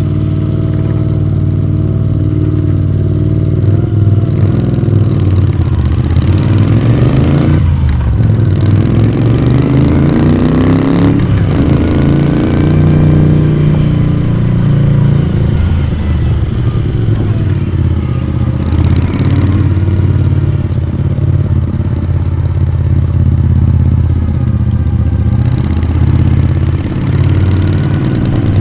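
1982 Moto Guzzi V35 café racer's air-cooled transverse V-twin running on the road. A quarter of the way in its note climbs under throttle, broken twice by short drops like gear changes, then it settles into a steady cruise.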